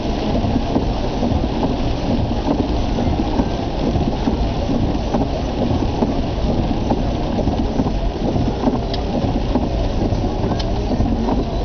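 Steady rain and car noise heard from inside the cabin: a dense, even hiss over a low rumble. A couple of faint ticks come near the end.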